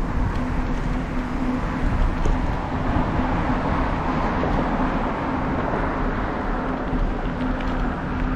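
Steady rushing noise from wind on the microphone and the bicycle rolling along the road, with a deep rumble underneath. The rush swells in the middle and eases off again.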